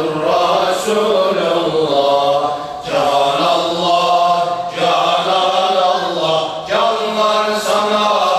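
Ilahi group chanting a zikr in unison, a repeated phrase sung about every two seconds with long held notes.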